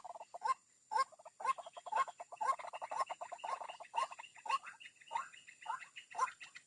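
White-breasted waterhen calls, the 'ruak-ruak' sound used as a lure to draw the birds out of cover. Short, downward-sliding notes repeat about twice a second, with fainter notes in between.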